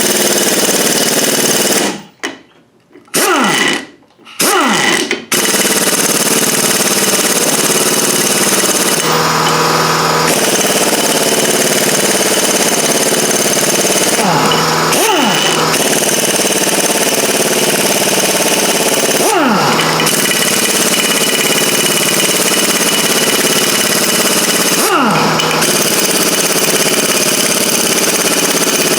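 Impact wrench hammering almost without a break on the Loctited ring gear bolts of a rear-axle differential. It cuts out twice for a moment a couple of seconds in, and its pitch dips briefly a few times later on.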